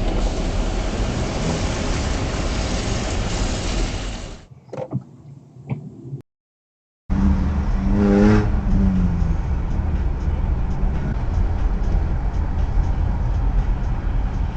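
Steady driving noise of a car picked up by a dashcam: road and engine noise that fades about four seconds in, cuts to silence briefly, then resumes, with a short pitched sound a second later.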